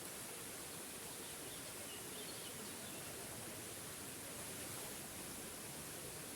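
Small forest waterfall running with a steady, even rush of water, with faint bird chirps now and then.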